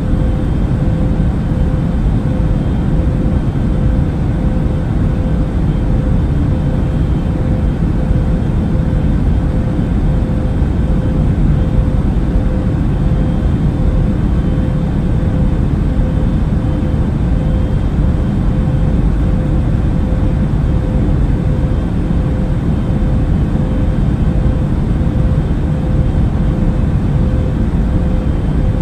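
Airliner cabin noise in flight: a steady, unchanging low rush of engine and airflow noise with a constant mid-pitched hum running through it.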